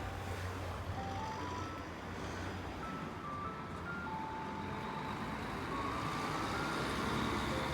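A simple melody of single held notes stepping up and down, over a steady rumbling noise with a low hum.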